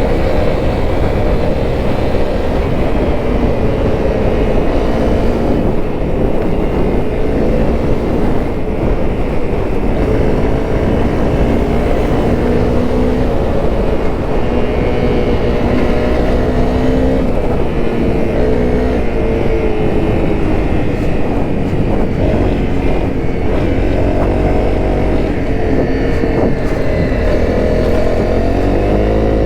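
Honda CRF250L's single-cylinder four-stroke engine running under way, its note rising and falling with the throttle and climbing in pitch near the end.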